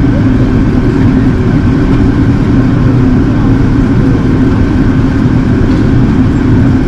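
Steady cabin drone inside an Airbus A380 in flight, from its engines and the airflow over the fuselage: a loud, even rumble with a low hum and a faint high tone over it.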